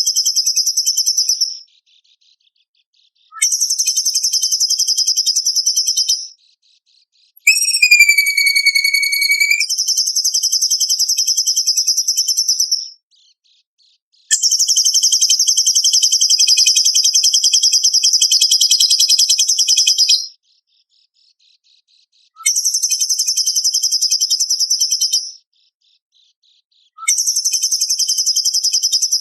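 Bird-song masteran material: repeated high, very fast buzzing trills (the 'besetan' bursts), each two to six seconds long, with short silences between. About eight seconds in, a single whistle slides down and levels off at the start of one trill.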